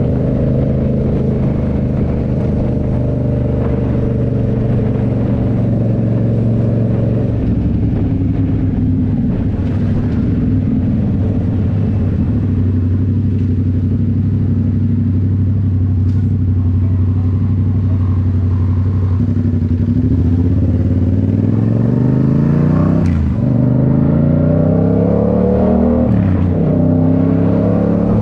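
Yamaha MT-07's parallel-twin engine through a Toce full exhaust, running at a steady engine speed while riding. Near the end it revs up under acceleration, with two quick drops in pitch at upshifts.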